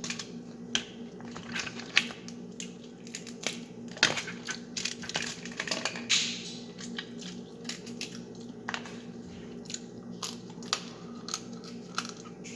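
Close-up eating of crab legs: chewing with sharp cracks and clicks of shell scattered throughout, over a steady low hum.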